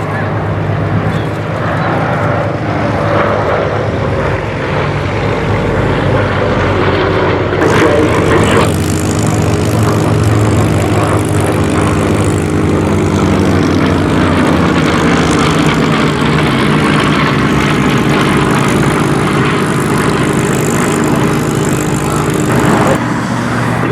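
Piston radial-engined propeller airliner or bomber flying past with a steady, loud engine-and-propeller drone. Its pitch falls over the first several seconds as it passes.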